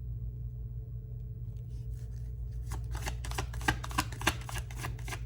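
Tarot cards being shuffled by hand: a quick run of soft card clicks and snaps that starts about halfway in, over a steady low hum.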